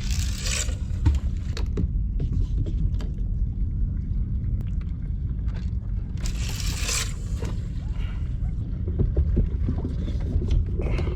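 Sounds of a fishing kayak afloat: a steady low rumble with small knocks and scrapes, and two short hissing bursts, one at the very start and one about six seconds in.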